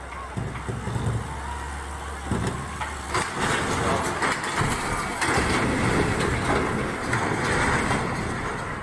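A heavy vehicle running with a low steady hum. From about three seconds in, a louder rough rumble with scattered knocks takes over.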